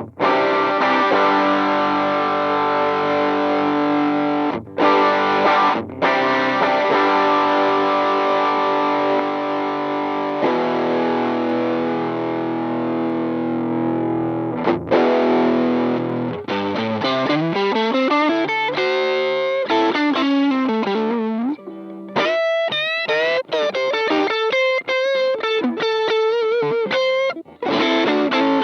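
Electric guitar played through a Demonfx King Spark drive pedal, a clone of the PiggyFX Flashdrive, with a distorted tone. Chords ring out for several seconds at a time, with two short breaks. About halfway through it moves to a single-note lead line with slides, bends and vibrato.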